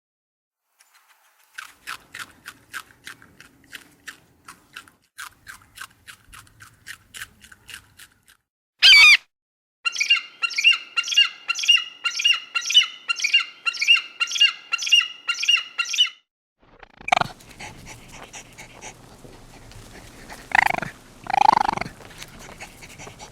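A series of different animal calls. First comes a run of quick, evenly spaced chirps, then one loud sweeping squeal about nine seconds in, then another run of high chirps about two and a half a second. Near the end two short calls sound over a steady hiss.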